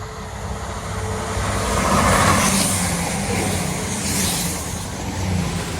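Class 222 Meridian diesel multiple unit passing at speed, its diesel engines and wheel-on-rail rush swelling to the loudest point about two seconds in, with a second swell a couple of seconds later as it crosses another diesel unit running the other way.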